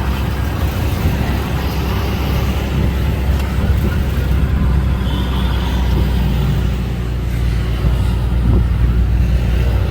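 Motor vehicle on the move: a steady low engine and road rumble with an even noisy hiss over it.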